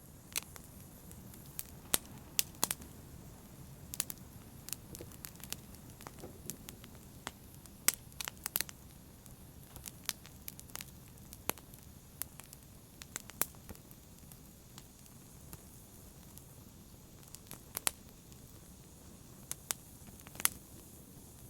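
Wood fire crackling in a fireplace: irregular sharp pops and snaps over a steady low background of the burning fire.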